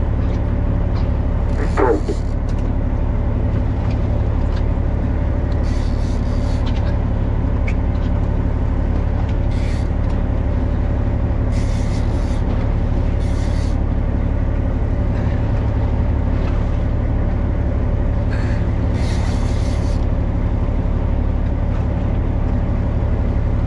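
Fishing boat's engine running steadily, a constant low drone throughout. A brief sliding tone about two seconds in, and short hissing bursts now and then.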